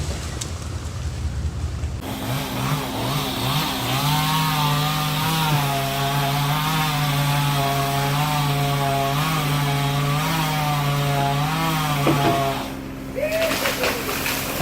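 Chainsaw engine revving up about two seconds in, then running at a steady high speed with a slightly wavering pitch. It cuts off abruptly near the end, and a few sharp knocks follow.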